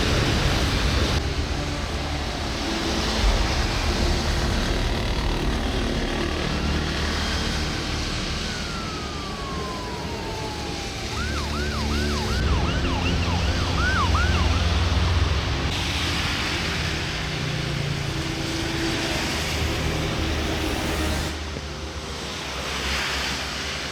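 Steady highway traffic noise, with a siren sounding about midway: one falling wail, then a few seconds of quick up-and-down yelps, about two a second, over a heavier low rumble.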